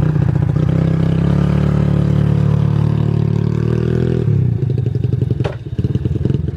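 A small motor vehicle's engine running steadily. About four seconds in, its pitch and level drop, as when it is throttled back.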